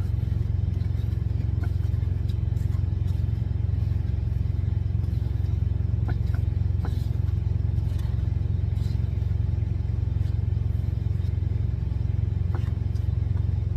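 Steady low rumble of an idling engine, with a few faint clicks and scrapes scattered through it.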